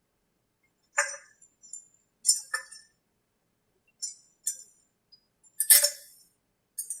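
Small metal tools and engine hardware clinking and tapping, about eight separate sharp clicks, the loudest near six seconds in. They come while the muffler is being bolted down on a model-aircraft gas engine.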